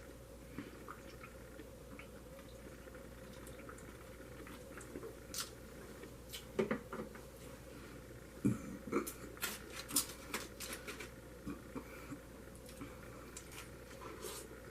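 A person chewing food with wet mouth sounds and scattered small clicks and smacks, busiest in the middle.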